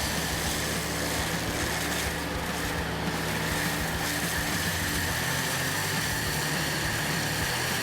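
Heavy machine's engine running steadily under load, with an even drone that holds its pitch.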